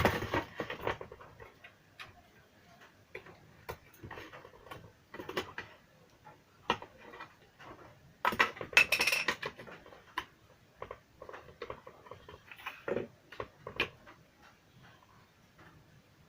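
Irregular small clicks, taps and scrapes of tools and small parts being handled during an electronics repair, with a louder burst of scraping about halfway through.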